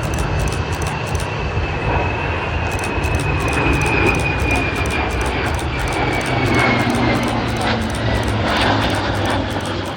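Airplane engine heard in flight, a steady low drone with a high whine that slowly falls in pitch as it goes by.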